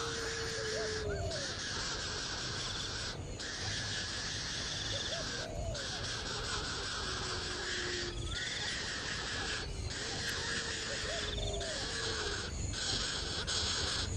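A bird gives a long, low, slightly falling call every few seconds. Behind it runs a dense, high buzzing that drops out briefly several times.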